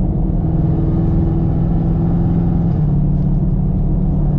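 Chevrolet Camaro SS's 6.2-litre LT1 V8, fitted with long-tube headers, running at a steady drone. Its pitch drops a step about three seconds in as the automatic transmission shifts up.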